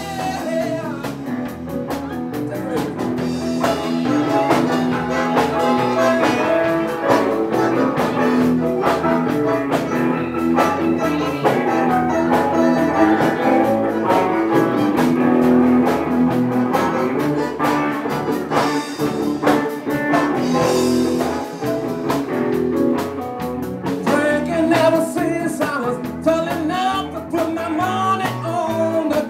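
Band playing an instrumental break between sung verses, with guitar over a steady drum beat in a blues-rock style.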